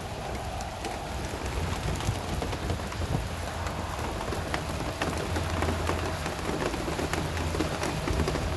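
Steady rain shower falling, an even hiss of rain with many individual drops ticking, over a low rumble that swells in the middle.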